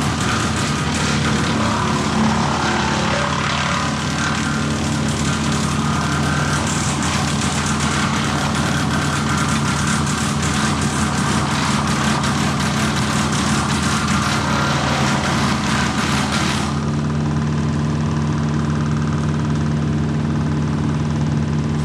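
An engine running steadily at one constant speed, with a loud rough rushing noise over it that drops away sharply about seventeen seconds in while the engine note carries on.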